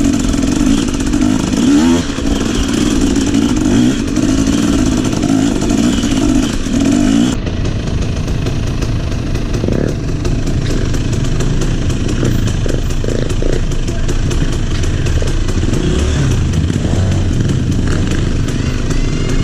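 Trail motorcycle engine running steadily with a strong even note. About seven seconds in, the sound changes abruptly to a lower, rougher rumble with scattered clatter.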